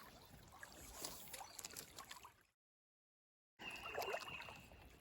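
Faint flowing river water with small clicks. It drops out for about a second of dead silence, and after that a steady high whine lasts for about a second.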